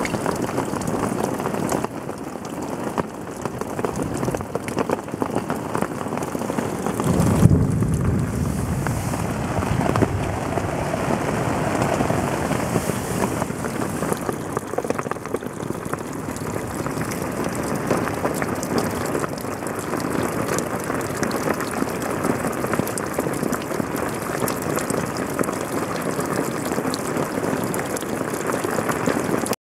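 Steady rain heard from inside a portaledge: a dense hiss of drops striking the fly and the rock. There is a brief low rumble about seven seconds in.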